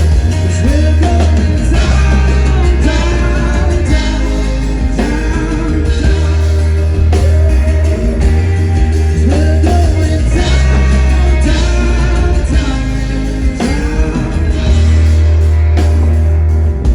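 Live performance of a pop-rock song: a man singing drawn-out, gliding vocal lines over guitar and a heavy, steady bass, all loud.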